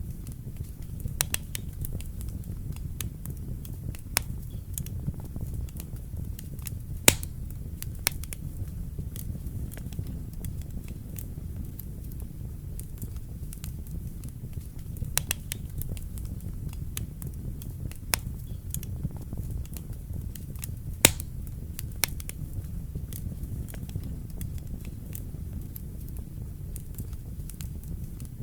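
Wood fire burning in a fireplace: a steady low rumble of flames with irregular crackles and pops, two louder pops about 7 and 21 seconds in.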